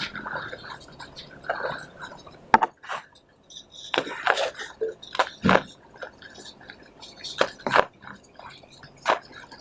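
Dry pure cement pots crumbling: irregular gritty crunches and cracks, with a handful of louder snaps spread through.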